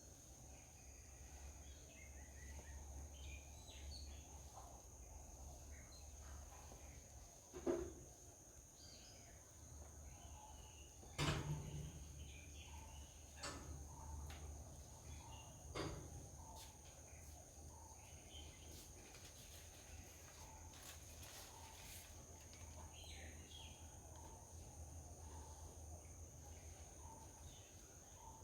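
Faint garden ambience with scattered soft bird chirps over a steady high-pitched tone. Four sharp clicks or knocks come about 8, 11, 13½ and 16 seconds in; the one about 11 seconds in is the loudest.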